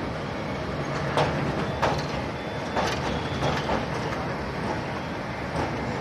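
Narrow-gauge passenger train running, heard from the open door of a coach: a steady rumble of the running train broken by a handful of sharp, unevenly spaced knocks from the wheels on the track.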